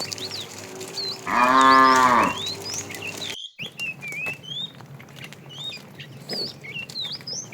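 A cow moos once, a loud call lasting about a second, beginning just over a second in.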